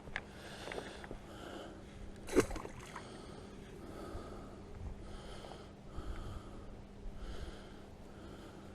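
A man breathing heavily through the nose close to the microphone, in even breaths about one a second, with one sharp knock about two and a half seconds in.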